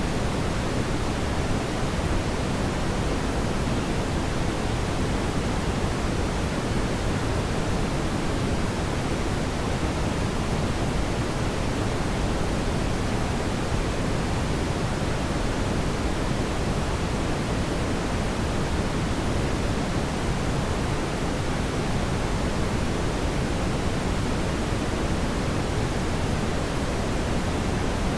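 Fire in a fireplace giving a steady, even rushing sound, strongest in the low range, with no distinct crackles or pops.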